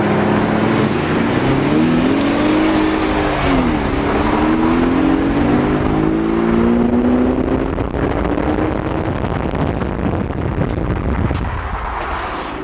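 Honda Civic Type R FK8's turbocharged four-cylinder running through a valveless AWE aftermarket exhaust. The engine note rises, dips sharply just under four seconds in, then climbs steadily for several seconds before fading into a steady rushing noise.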